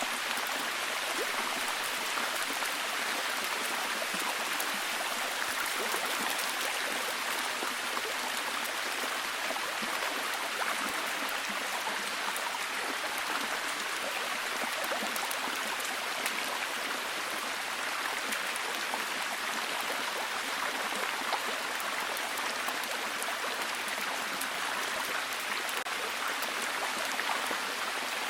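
Steady heavy rain: a dense, even hiss of many drops with fine patter, without pauses or changes.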